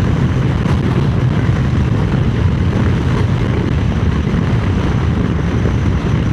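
Triumph Speed Twin 900's parallel-twin engine running steadily at road speed, mixed with wind noise on the microphone.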